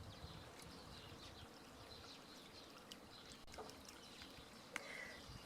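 Near silence: faint outdoor ambience with scattered small high chirps from distant birds or insects, and a sharp click near the end.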